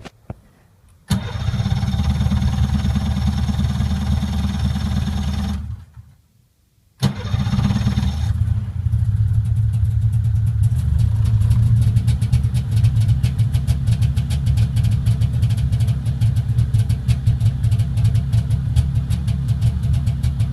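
Polaris Indy 340 snowmobile's two-stroke engine cold-starting on full choke: it fires about a second in and runs for about five seconds, then cuts out. It starts again about seven seconds in and keeps running steadily with a fast, even beat.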